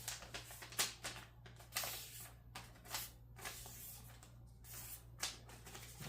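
A square sheet of origami paper being handled and folded point to point: irregular crinkling and crisp creasing rustles of paper, over a low steady hum.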